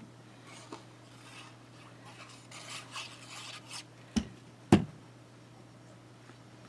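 Paper being handled and smoothed down on a craft table, with soft scratchy rustling, then two sharp taps on the tabletop about half a second apart, over a faint steady hum.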